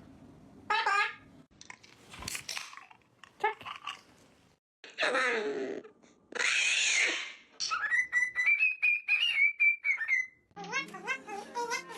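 Pet parrot vocalizing: a string of short chattering calls and harsh screeches, then one long whistle that rises and holds for about two and a half seconds.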